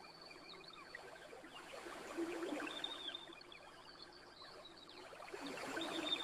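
Campfire crackling: a steady scatter of small pops and ticks over a soft hiss, swelling a little about two seconds in and again near the end.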